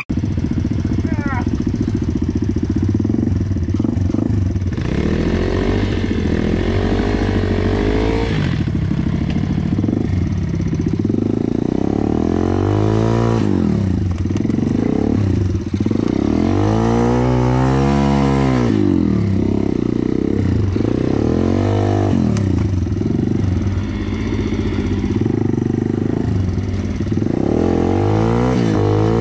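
Pit bike's small single-cylinder four-stroke engine revving up and down over and over under load in mud, with several long swells in pitch, the biggest a little past halfway and again near the end.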